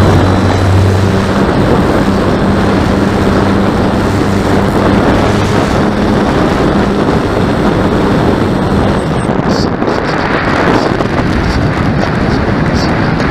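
Heavy wind buffeting the microphone, a loud steady rush, with a low hum underneath that fades out about two-thirds of the way through.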